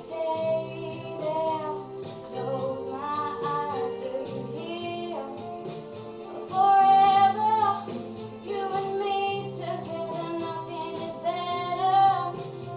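A young girl's voice singing a pop ballad over a sustained instrumental backing track.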